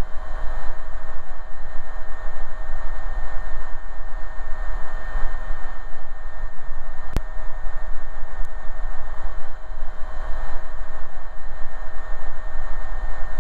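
Steady in-flight cabin noise of an AgustaWestland AW119 Koala single-engine helicopter, a dense even drone with a constant whine held on two steady pitches. A single sharp click comes about seven seconds in.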